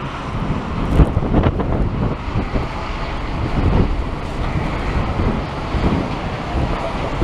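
Strong gusting wind in a snowstorm, buffeting the microphone: an uneven low rumble with sharper gusts about a second in.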